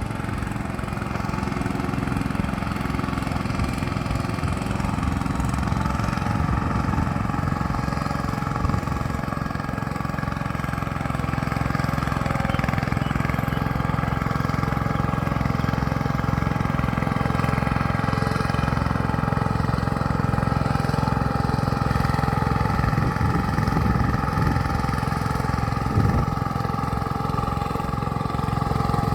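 Mini tractor engine running steadily, with a single sharp knock near the end.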